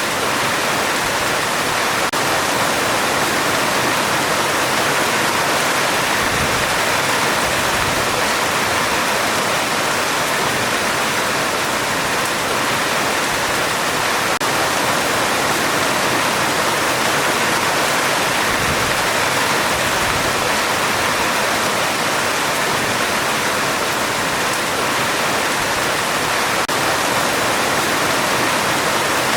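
Heavy rain drumming on a metal roof: a steady, dense hiss of rainfall that doesn't let up.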